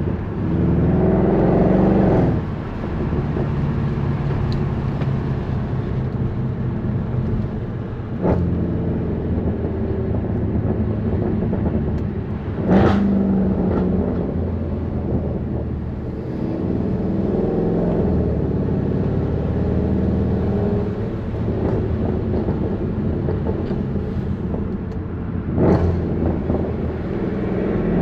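Straight-piped 6.2-litre M156 naturally aspirated V8 of a 2009 Mercedes C63 AMG on the move, its exhaust swelling with several bursts of acceleration. A few sharp cracks cut through, the loudest about 13 s and 26 s in.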